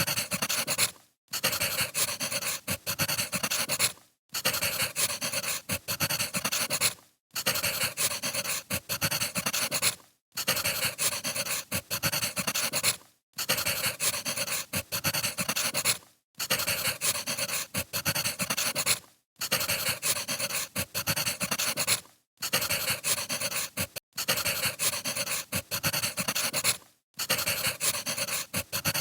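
Wood fire crackling and popping. It comes in stretches of about three seconds, each broken off by a brief silent gap.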